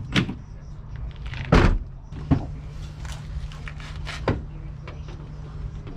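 A handful of sharp knocks and clunks from car parts and tools being handled during reassembly, the loudest about a second and a half in, over a steady low hum.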